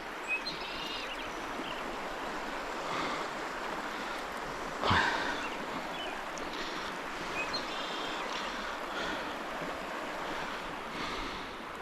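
Stream water running with a steady rush, and a single sharp knock about five seconds in.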